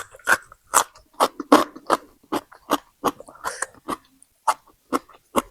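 Close-up chewing of crisp food, a quick run of crunching bites about two or three a second.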